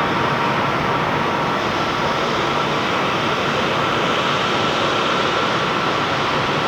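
Jet airliner engines running: a steady, even rush of noise with a faint steady whine.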